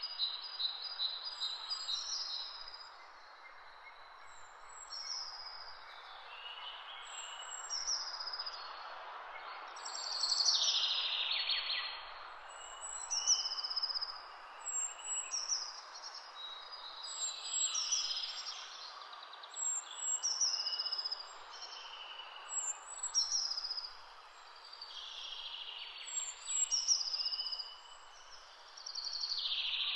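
Woodland birds singing, with short high calls and glides repeating every second or two, over a steady rushing background hiss.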